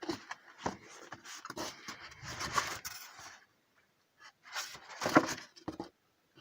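Irregular scraping and knocking noises, in a busy cluster that stops about three and a half seconds in, then a second short cluster with one sharp knock about five seconds in.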